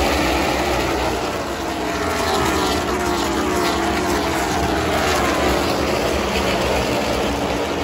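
NASCAR race trucks' V8 engines running at speed on the track, several passing in turn, each dropping in pitch as it goes by.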